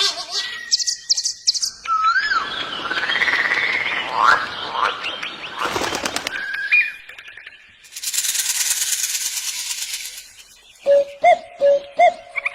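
A sequence of different animal calls cut one after another: whistled and chirping calls with pitch glides over a rustling noise, then a high buzzing trill, then a run of short repeated calls near the end.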